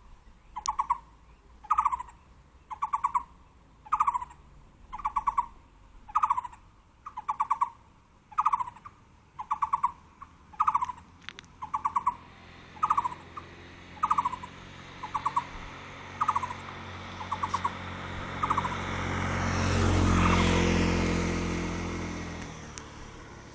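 A bird giving a short rattling call over and over, about once a second, growing fainter until it stops near the end. A vehicle then passes, swelling to its loudest about two-thirds of the way in and fading away.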